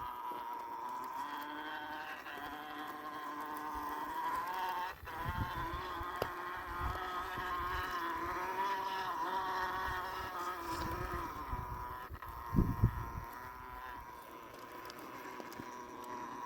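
Axial SCX10 II RC crawler's electric motor and geared drivetrain whining steadily as it crawls, the pitch wavering slightly with throttle and load. Low thumps come in about five seconds in and again near the end, the loudest near the end.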